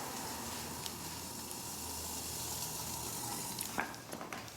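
Steady hiss of a wood gas pellet stove burning hot under a pot of water at a rolling boil. Near the end the hiss drops and a few light metal clinks follow.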